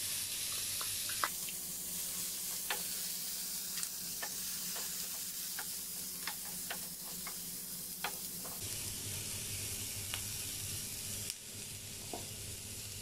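Diced capsicum and onion sizzling in melted butter in a nonstick frying pan and being stirred with a wooden spatula: a steady frying hiss with scattered light clicks and scrapes. It turns a little quieter for the last couple of seconds.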